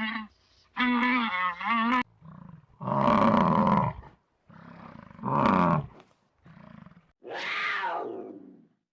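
Big cat roaring: three loud, rough roars, the last falling in pitch, after a shorter wavering pitched call about a second in.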